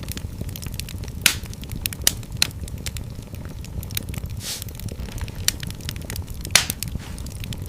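Wood fire crackling in a fireplace: irregular sharp snaps and pops over a steady low rumble of the flames. A few louder pops come about a second in, around two seconds, and near the end.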